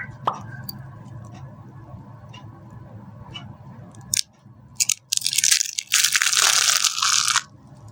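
Dry soap being crushed: a few small crackles, two sharp snaps, then a loud dense crunch lasting about two seconds that stops suddenly.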